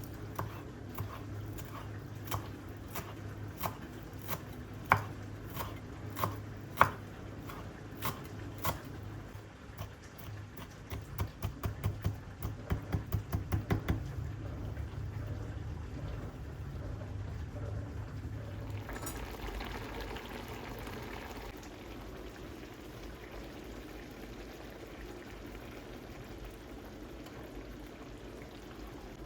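Food preparation sounds: a string of sharp knocks about every half second, then a quicker run of taps, over a low steady hum that stops about two-thirds of the way through. A brief rush like liquid pouring follows the hum.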